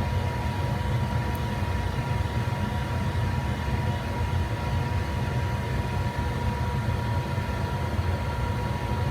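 Steady low mechanical hum with a thin steady whine above it, unchanging throughout.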